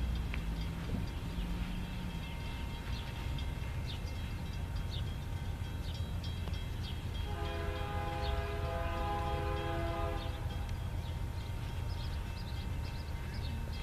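Freight train diesel locomotive rumbling as it approaches. About halfway through, the locomotive's air horn sounds one long chord of several notes, held for about three seconds.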